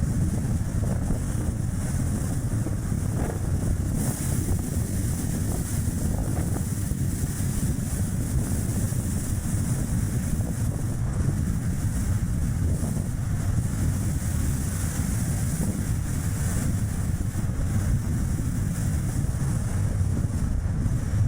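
Strong wind buffeting the action camera's microphone over the road and tyre noise of a Chevrolet Spark light car driving. The sound is a steady low rumble with a high hiss that grows brighter about four seconds in.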